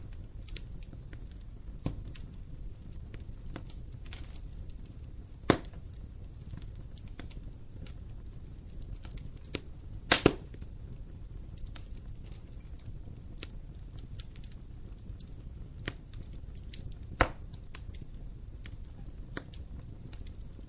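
Wood fire burning in a fireplace: a steady low rumble of flames with frequent small crackles and a few sharp pops, the loudest a double pop about ten seconds in.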